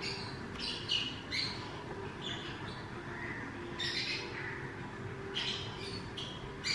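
Small birds chirping and squawking: a string of short, high calls with brief gaps between them.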